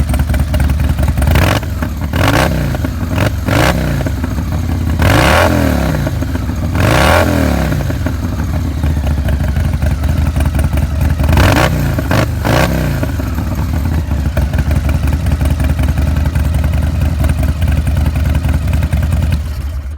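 Harley-Davidson Road King's Twin Cam 88 V-twin running through a Danmoto Highwayman 2-into-1 stainless exhaust, blipped in about seven quick revs over the first 13 seconds, then settling back to a steady idle.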